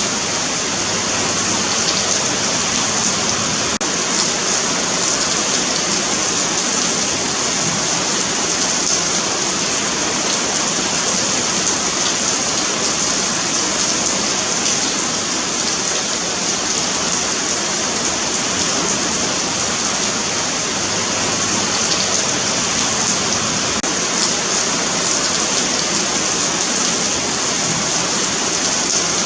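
Steady rain falling on a paved sidewalk, a continuous even hiss of drops with faint individual drop ticks.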